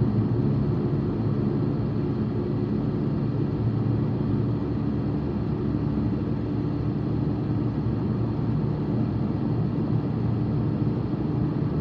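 Steady road and engine noise inside a moving car's cabin, a continuous low rumble.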